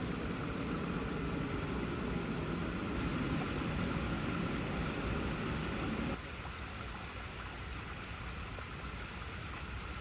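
Water flowing over icy rocks, a steady rushing noise. About six seconds in it drops suddenly in level and loses much of its lower rumble, then runs on evenly.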